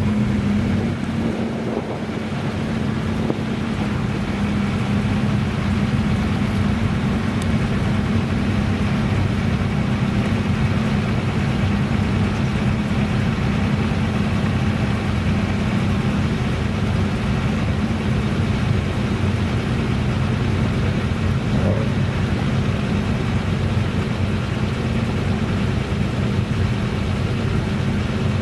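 Classic car engine running steadily, an even engine note with no revving.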